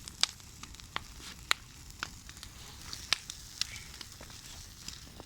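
Bonfire crackling, with irregular sharp pops over a steady hiss.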